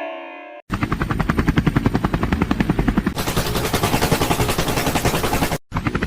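A loud, fast rattling sound effect of about a dozen pulses a second, with a loud hiss joining it partway through. A fading musical tone comes just before it, and near the end it breaks off for an instant and starts again with a wavering high whine over it.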